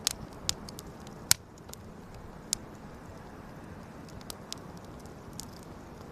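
Wood campfire crackling: a steady low hiss of burning with sharp pops every second or so, the loudest about a second in.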